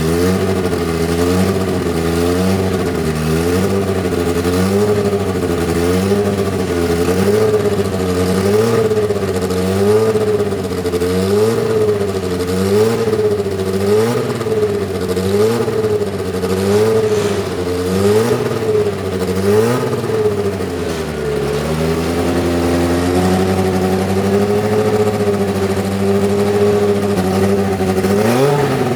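Arrows A10's Megatron 1.5-litre turbocharged four-cylinder engine, blipped up and down about once a second, then held at a steady lower speed about two-thirds through, rising again near the end.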